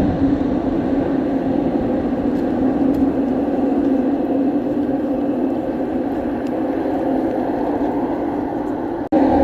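Eglinton Crosstown (Line 5) light rail train running between stations, heard from inside the car: a steady rumble with a low, even motor hum. The sound drops out for a moment near the end.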